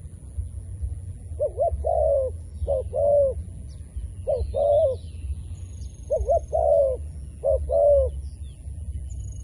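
Decoy zebra dove cooing: five short phrases of quick, bouncing coo notes spaced a second or two apart. Faint high chirps of small birds and a steady low rumble sit underneath.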